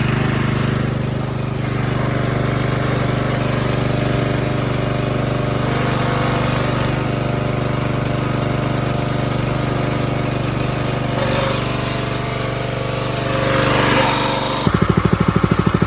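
Harbor Freight Predator 212 single-cylinder engine running steadily, driving a pressure washer pump, with a hiss over it for several seconds in the middle. Near the end the sound changes suddenly to a faster, strongly pulsing engine beat.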